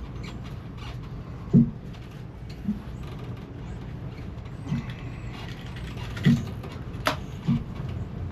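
Hand work in a boat's engine compartment: five dull knocks spread out over a few seconds and one sharp click about seven seconds in, over a steady low hum.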